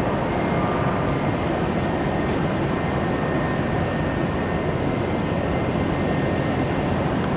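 Jet airliner engines at takeoff power on a departure: a steady, even rush of jet noise with a faint high whine.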